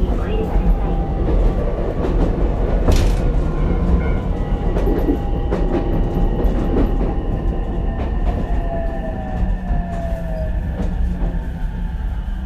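Ichibata Electric Railway 7000-series single-car electric train running, heard from on board: a steady rumble of wheels on rail with a few sharp joint clicks, and a thin motor whine that falls in pitch in the second half as the train slows.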